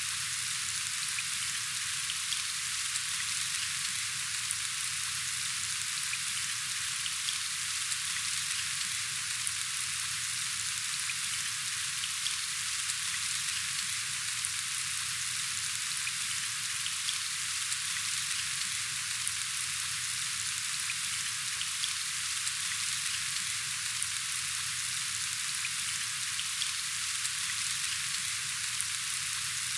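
Steady rain falling, a constant hiss of many drops with faint scattered ticks of single drops.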